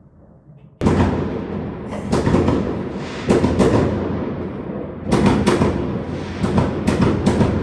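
Aerial fireworks going off: a sudden loud bang just under a second in, then clusters of sharp cracks and bangs over a continuous rumble.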